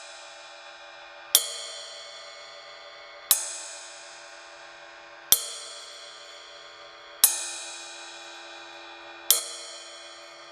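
Close-miked ride cymbal struck five times with a drumstick, about every two seconds, each stroke ringing out with a dense shimmer of overtones that slowly fades before the next.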